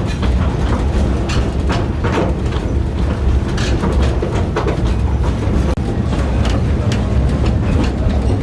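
Narrow-gauge train running along the line: a steady rumble with irregular clicks of the wheels over the rail joints.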